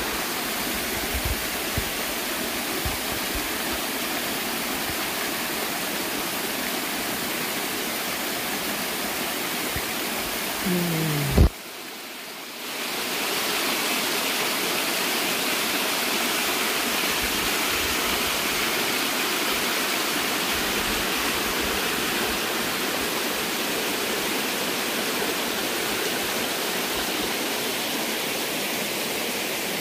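Small waterfall's water rushing and splashing as a steady hiss. About eleven seconds in, a brief falling tone and a sharp click interrupt it, and the water drops away for about a second before returning brighter.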